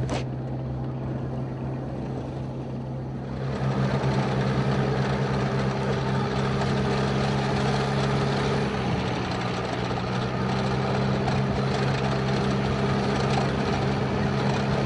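Vehicle engine running steadily while driving over a rough dirt mountain track, heard from inside the cab. About three and a half seconds in, a louder rushing road and wind noise comes in over the engine hum and stays.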